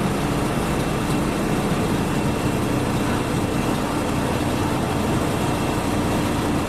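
A train running steadily: a low, even engine drone with the noise of the moving train.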